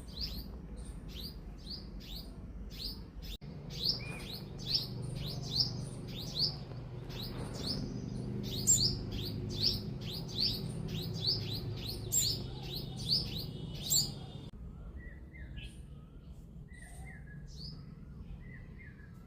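Baby birds chirping: loud, short, falling high-pitched chirps repeating about two or three times a second. They stop about 14 seconds in, and fainter, lower chirps follow.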